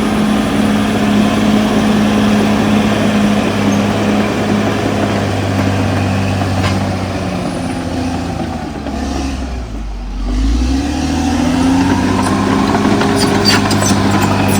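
Cat D6R XL bulldozer's diesel engine running hard and steady; about nine seconds in it drops in pitch and bogs briefly, then climbs back up. Sharp clicks sound near the end.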